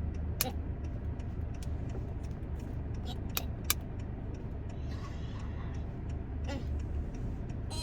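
A steady low rumble, with a few sharp clicks: one about half a second in and two close together around the middle.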